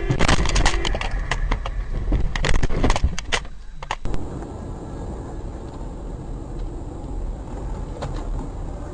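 A run of sharp knocks and clatters for about the first four seconds, then steady car noise.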